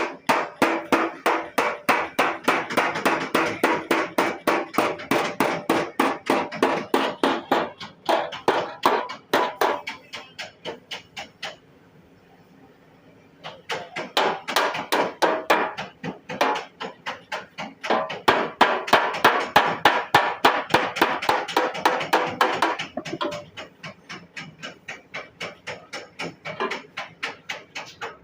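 Rapid, even hammer blows on a car's sheet-metal side body panel, about five a second, being beaten back into shape. The blows come in long runs with a pause of about two seconds near the middle and lighter blows near the end.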